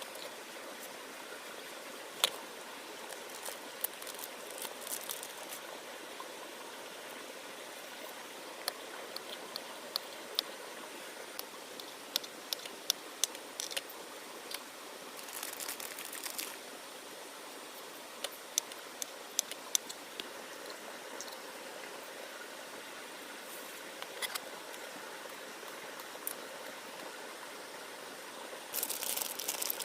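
Steady rain hiss with scattered sharp drops ticking through it, and a short louder rush about halfway through.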